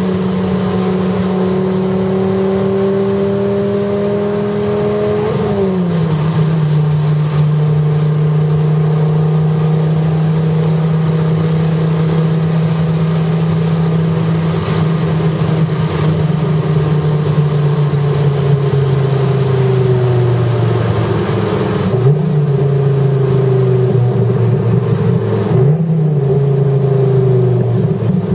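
Dodge Viper GTS's 8.0-litre V10 engine heard from inside the cabin, pulling at steady moderate revs. About five seconds in it shifts up and the pitch drops, then settles lower, with the revs dipping and picking up again twice near the end.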